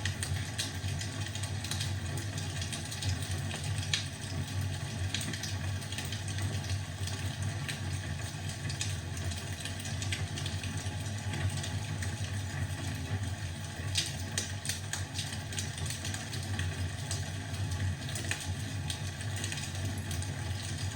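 Wood fire in a fireplace crackling: a steady low rumble of the burning fire with many small irregular pops and snaps, a few sharper pops about four seconds in and near the two-thirds mark.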